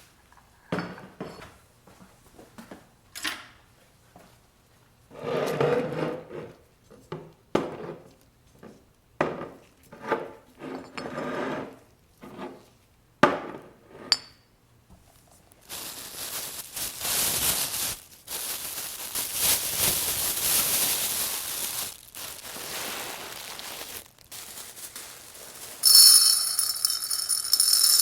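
Kitchen storage containers and lids clicking, clinking and knocking as they are handled. This is followed by several seconds of a steady rushing hiss, then a brighter, ringing rattle near the end.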